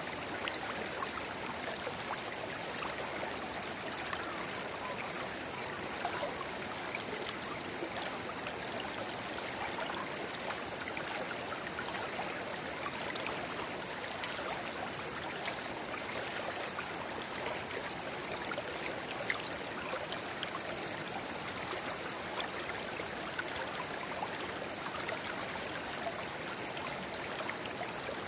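River water babbling over stones where a small spring-fed channel runs into the main stream. It is a steady rush dotted with many small splashes and gurgles.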